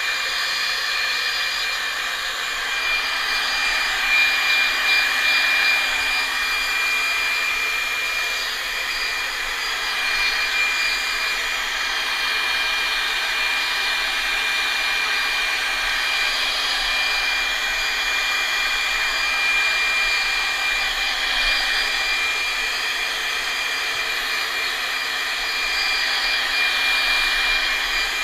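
Blow dryer running steadily on a pet's fur, a continuous rushing blow with a steady high whine.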